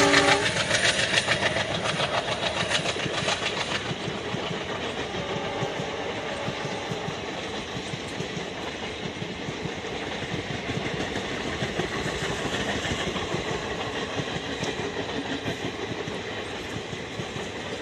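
A passenger train hauled by a WAP-7 electric locomotive is rolling past. The locomotive's horn cuts off about half a second in, and the wheels clatter over rail joints. The sound then settles into a steady rolling rumble of the passing coaches.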